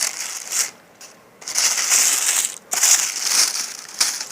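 Packaging rustling and crinkling in three bursts as a subscription box is opened and its contents are handled.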